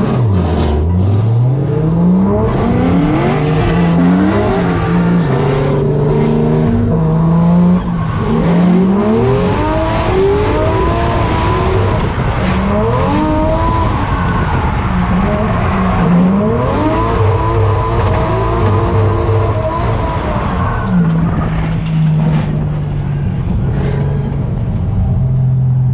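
Turbocharged 1JZ straight-six in a Nissan 240SX, heard from inside the car during a drift run on a wet track, revving hard up and down over and over, its pitch swinging every second or two, with tyre noise underneath. From about 21 seconds in it holds a steady, lower note.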